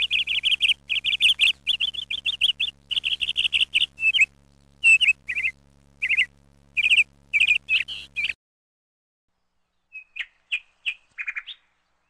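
Small songbird chirping in quick trilled runs, dense for the first eight seconds, then cutting off; a few scattered chirps follow shortly after.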